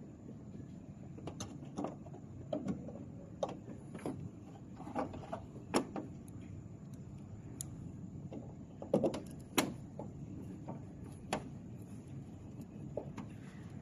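Scattered light mechanical clicks and knocks at irregular intervals, the loudest cluster a little past the middle, over a low steady hum.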